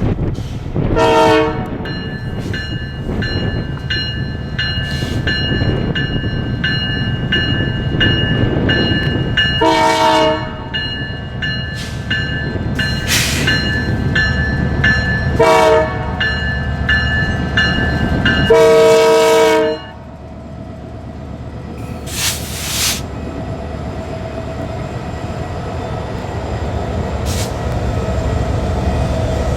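Diesel locomotive (a Canadian Pacific GP20C-ECO) passing, with its horn sounding four blasts, the last one the longest, over a steady rumble of engine and rolling train. A high, steady ringing runs between the first and last blasts, and the rumble drops off right after the last blast.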